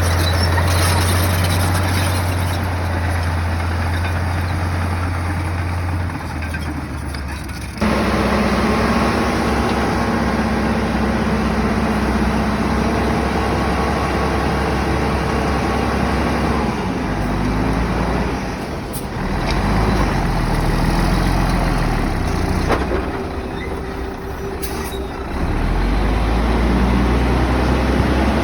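Komatsu bulldozer's diesel engine running hard, its pitch rising and falling as the load changes, with an abrupt change in the sound about eight seconds in.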